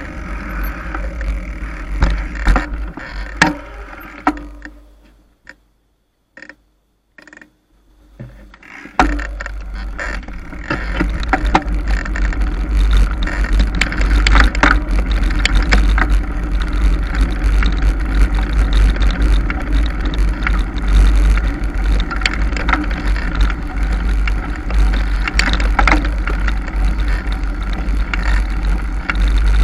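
Mountain bike being ridden over a rough trail: wind buffeting the microphone with a heavy rumble, and the bike rattling with frequent sharp clicks and knocks. About five seconds in the sound falls almost quiet apart from a few clicks, then the rumble and rattle pick up again about nine seconds in and continue.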